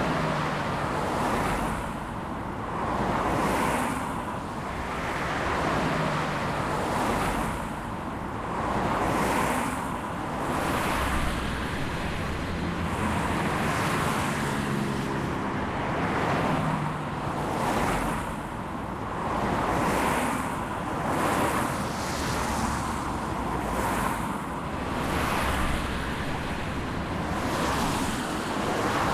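Freight train cars rolling past, a steady rush of wheels on rail that swells and fades about every one and a half seconds as each car goes by.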